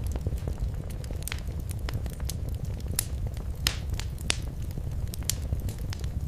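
Wood fire burning in a fireplace, crackling, with irregular sharp pops over a steady low rumble of the flames; a few louder pops come about three to four seconds in.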